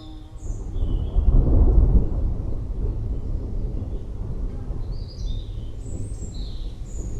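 A roll of distant thunder that swells about a second in, peaks a moment later and then rumbles on more quietly. Forest birds chirp over it, mostly near the end.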